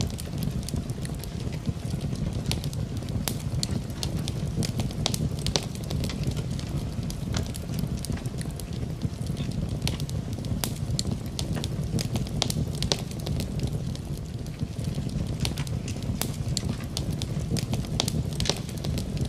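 Wood fire burning in a fireplace, with irregular sharp crackles and pops over a steady low rumble; rain falling in the background.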